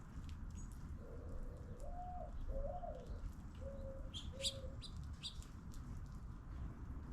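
A dove cooing one low phrase: a long note, a higher drawn-out note, then three shorter notes. A small bird gives a few short high chirps about four seconds in.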